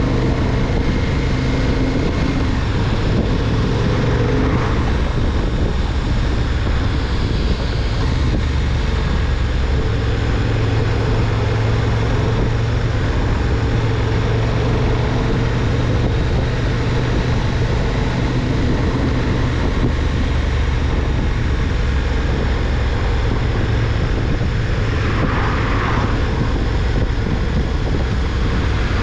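KTM 1290 Super Duke R's V-twin engine running at a steady cruise, with wind noise rushing over the bike-mounted microphone.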